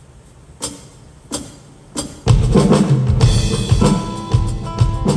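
Rock band playing live: three single sharp drum strikes about two-thirds of a second apart, then the full band comes in loud with drum kit, bass and sustained guitar or keyboard notes a little over two seconds in.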